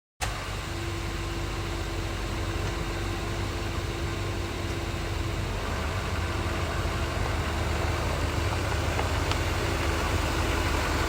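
Pickup truck engine idling steadily, a low, even rumble with a faint steady whine above it.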